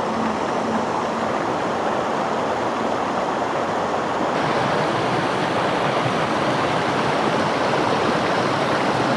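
Mountain creek water rushing steadily over rocks, a constant loud noise that gets a little brighter about four seconds in.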